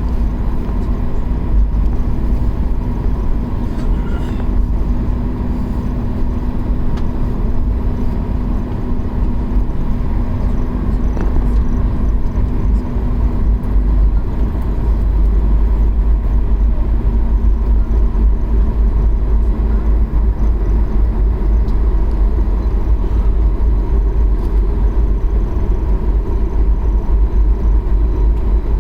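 Cabin noise of a jet airliner taxiing after landing: a steady deep rumble with a thin steady whine above it. A lower hum fades out about halfway through.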